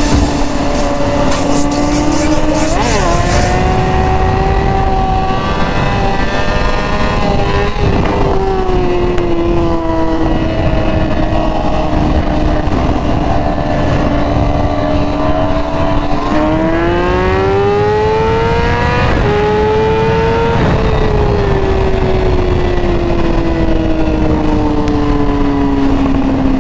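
Sportbike engine running at steady road speed under a haze of wind noise. About sixteen seconds in it pulls up through the revs with a brief dip at a gear change, then eases off and the pitch falls slowly.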